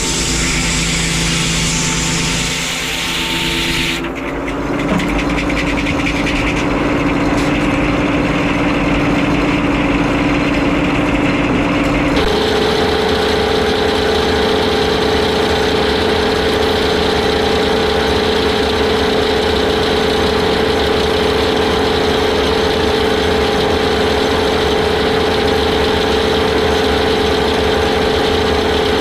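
Frick 01-C sawmill running steadily with a constant mechanical hum; the hum's pitch and character change abruptly about four seconds in and again about twelve seconds in.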